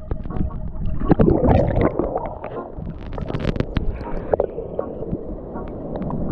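Water sloshing and gurgling in irregular splashes, loudest about a second in.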